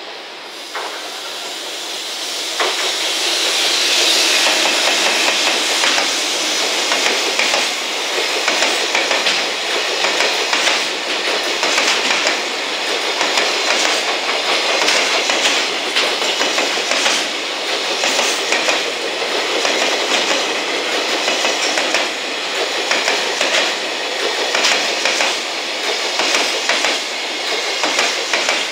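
A JR Freight EF210 electric locomotive passes, and a long container freight train rolls by behind it. The noise swells about two seconds in as the locomotive reaches the microphone, then runs on with a steady clickety-clack of wagon wheels over rail joints.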